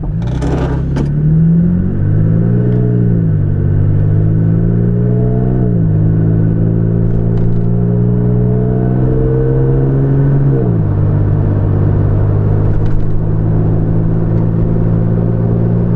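Toyota Tacoma with a MagnaFlow Overland cat-back exhaust, heard from inside the cab while accelerating gently from a stop to about 45 mph. The engine and exhaust note rises through each gear and drops at each upshift, about three times, then holds steady at cruising speed for the last few seconds.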